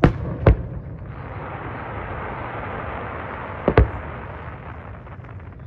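Aerial fireworks shells bursting: two sharp bangs half a second apart at the start and another a little over three and a half seconds in, with a steady hiss between them.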